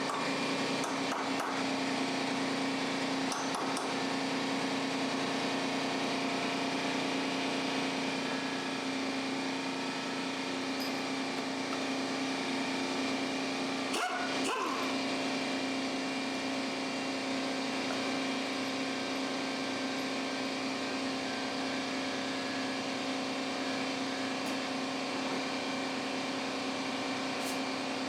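A machine running steadily with a constant hum, with a couple of brief clicks about halfway through.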